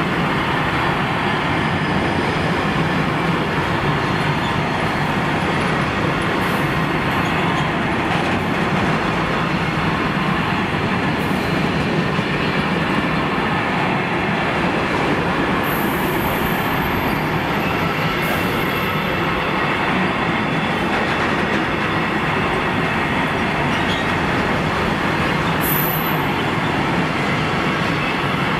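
A long freight train's wagons rolling past close by: a steady rumble and rattle of wheels on the rails, without a break.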